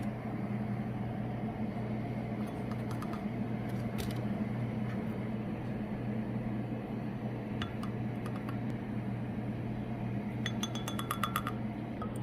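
Supplement and vitamin containers being handled on a counter, with light clinks and a quick run of clicks near the end, over a steady low hum.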